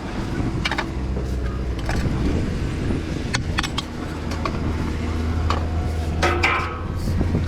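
An engine running steadily, with scattered sharp clacks and knocks over it.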